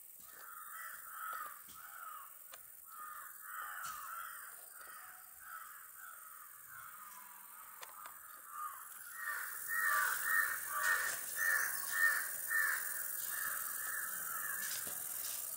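A bird calling over and over, about two calls a second, the calls growing louder to a run of loud calls about two-thirds of the way through.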